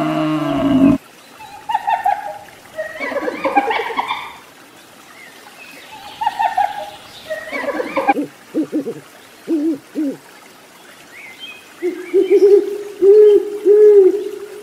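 Three animal calls in turn. A water buffalo's low call ends about a second in. Spotted hyenas then give a string of short gliding cries, and near the end an owl hoots four times in quick succession, the loudest part.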